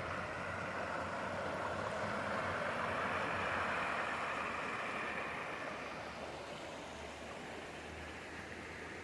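Outdoor traffic noise from a nearby road: tyre and engine noise from a passing vehicle, swelling about three seconds in and then fading to a steady, lower hum.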